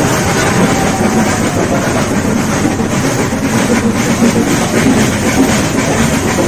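Nilgiri Mountain Railway toy train running: a steady, loud rumble and rattle of the carriage and wheels on the track.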